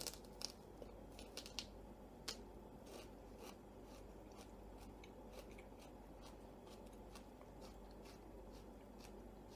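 Raw celery stick being bitten and chewed: a run of crisp crunches, loudest in the first couple of seconds, then fainter crunches spaced out as the chewing goes on.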